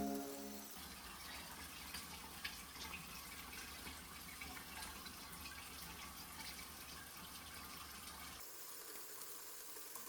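Faint running water, an even hiss with small drips and ticks, as the background music fades out in the first second.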